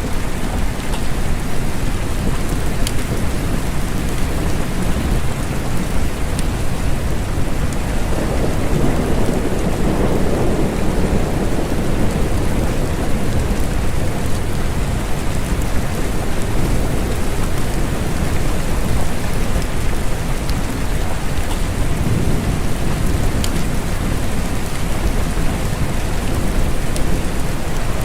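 Steady rain falling, with low rumbles of thunder swelling up about eight seconds in and again about twenty seconds in.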